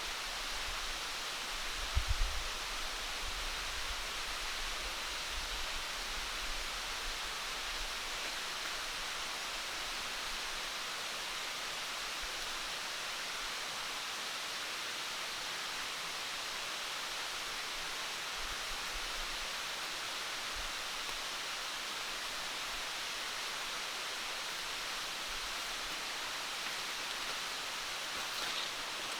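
Steady, unchanging hiss of water, such as rain or a stream in forest, with a brief low thump about two seconds in.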